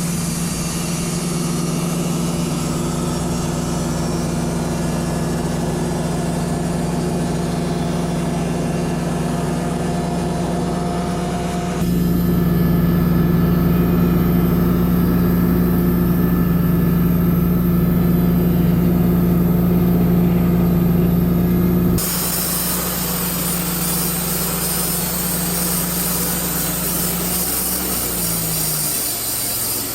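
Wood-Mizer LT35 portable bandsaw mill's engine running steadily under sawing. The sound shifts abruptly twice, about 12 and 22 seconds in, and near the end the engine's pitch drops as it slows.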